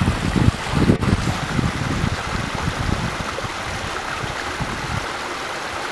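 Backyard pond waterfall splashing steadily into the koi pond, with an uneven low rumble in the first two seconds or so.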